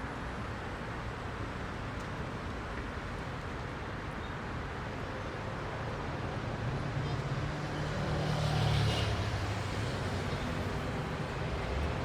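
Heavy rush-hour road traffic, a steady wash of engines and tyres. About seven seconds in, one vehicle with a low engine drone passes close, getting louder and peaking just before nine seconds with a brief hiss.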